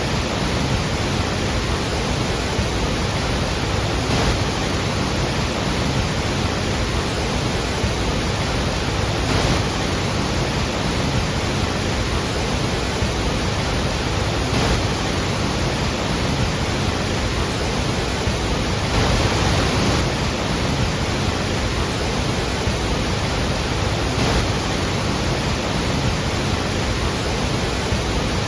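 Large waterfall thundering: a steady, dense roar of falling water with no breaks.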